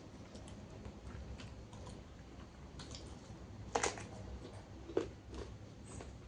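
Close-up mouth sounds of eating: crisp, wet crunching and chewing of raw lalapan vegetables in small clicks, with two louder crunches about four and five seconds in.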